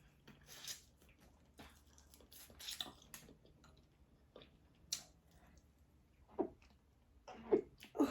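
A person chewing and eating seafood-boil food close to the microphone: irregular short wet mouth sounds and clicks, about one every second or so.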